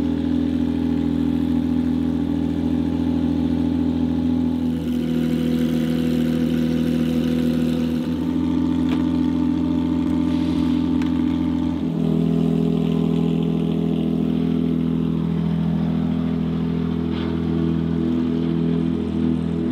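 Porsche 911 GT3 Cup (992) race car's flat-six engine idling steadily, its note shifting slightly a few times.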